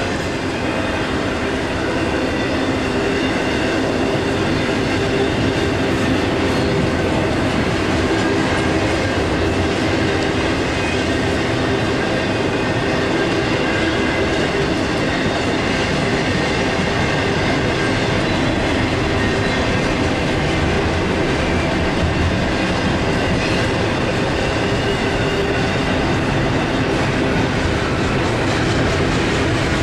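Intermodal freight train of double-stack container well cars and trailer-carrying flatcars rolling past at a steady speed: a steady, unbroken sound of steel wheels running over the rails.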